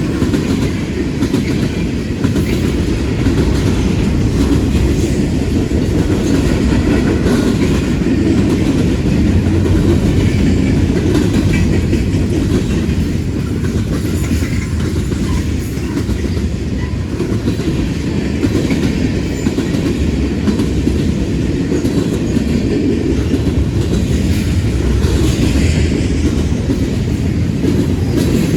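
Freight cars of a long freight train rolling past, with a steady low rumble and the clickety-clack of wheels over the rail joints.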